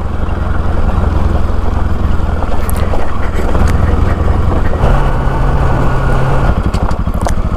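Bajaj Pulsar NS200 single-cylinder motorcycle engine running under way, its exhaust pulsing steadily and loudly. About five seconds in a steady low hum joins the engine note for a second or so.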